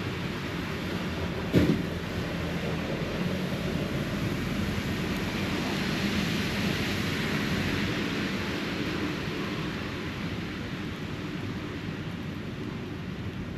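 Outdoor ambience with a distant vehicle passing, swelling to a peak around the middle and slowly fading. A single sharp knock sounds about a second and a half in.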